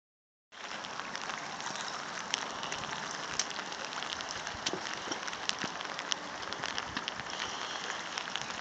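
Heavy rain falling steadily, with scattered individual drops ticking close by. It starts about half a second in.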